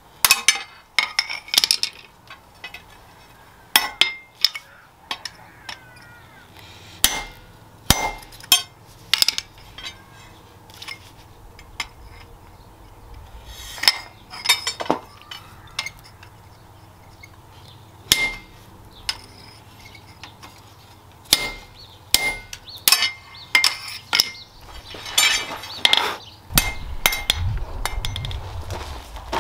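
Hammer blows on steel: separate, irregular strikes a second or two apart, each with a short metallic ring. A scraping sound comes in near the end.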